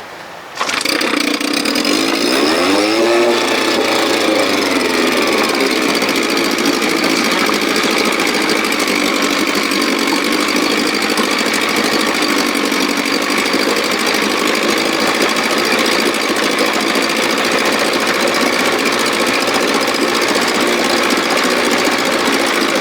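Running 1957 Sea King 5 hp two-stroke outboard motor. It comes in abruptly about half a second in, its speed climbs and dips for a few seconds, then it runs on at a steady speed.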